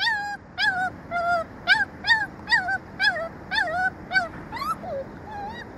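Dog yipping: a rapid run of short, high-pitched calls, about two or three a second.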